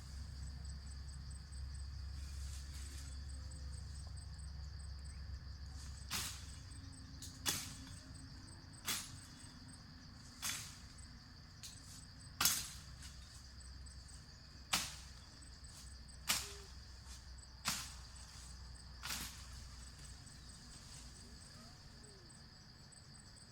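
Insects chirring steadily in a high, even drone. About a quarter of the way in, a run of about ten sharp strikes begins, roughly one every second and a half, and it stops near the end.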